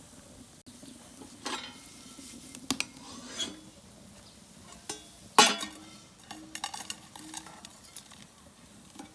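Food sizzling in a frying pan over a wood fire while a metal utensil scrapes and clinks against the pan several times, loudest about halfway through.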